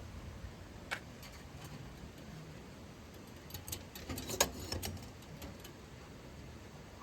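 A single light click about a second in, then a quick cluster of small clicks and taps around four to five seconds, over a low steady background.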